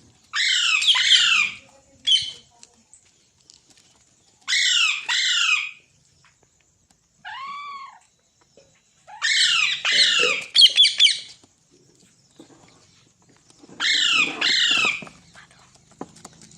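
Green parrot squawking in loud, harsh bursts of screeches, four rounds of them, with one softer, clearer call in the middle.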